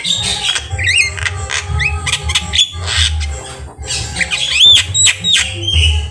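Javan myna (jalak kebo) singing a varied, busy song: sharp whistles, rising and arching glides, harsh squawks and clicks in quick succession, with the loudest arching whistles near the end.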